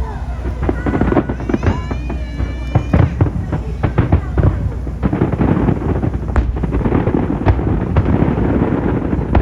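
Aerial fireworks bursting in quick, irregular succession: a dense run of booms and crackles.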